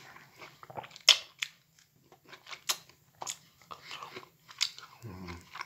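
A person chewing juicy mandarin segments with the mouth close to the microphone: irregular smacking and clicking mouth noises, the sharpest about a second in. Near the end comes a brief low vocal sound.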